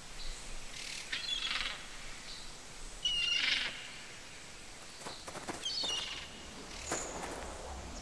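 Birds calling: three short high calls with a wavering pitch, about a second in, about three seconds in and near six seconds, the middle one the loudest, over faint forest ambience.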